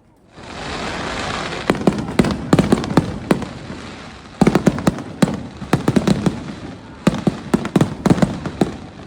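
Fireworks display: a sudden rush of hissing about a third of a second in, then repeated volleys of sharp bangs and crackling shell bursts in quick clusters.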